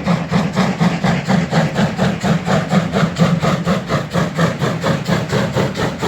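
Class 50 two-cylinder steam locomotive 50 3648-8 working under steam, its exhaust chuffing in a fast, even rhythm of about five beats a second.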